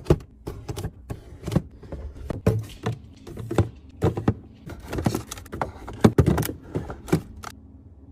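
Irregular clicks, knocks and light rattles of food containers and packaging being handled and set down while restocking a fridge, stopping about seven and a half seconds in.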